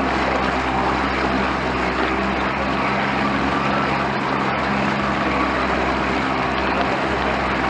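Bass boat's outboard motor running steadily under way, its even drone mixed with a loud rush of wind and water.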